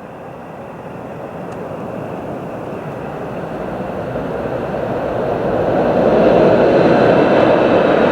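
A train approaching, its running noise growing steadily louder for about six seconds and then holding at full level as it draws near.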